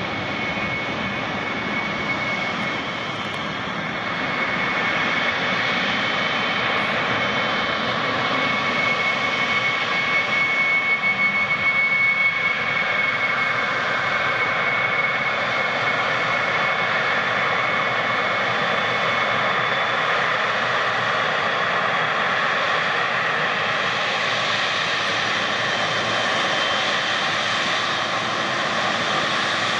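A jet airliner's engines running, with a steady high whine over a broad rushing noise. The sound grows louder about five seconds in and then holds steady.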